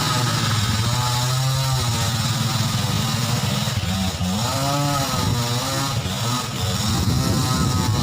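Motorcycle engine running, its pitch rising and falling repeatedly as the revs go up and down.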